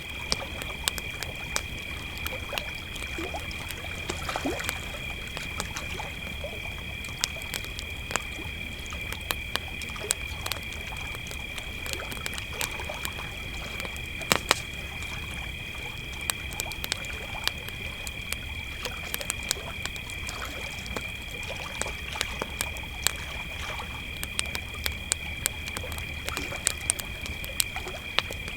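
Crickets trilling in a steady, unbroken high chorus, over the crackle and frequent sharp pops of a campfire. There is a low steady rumble beneath.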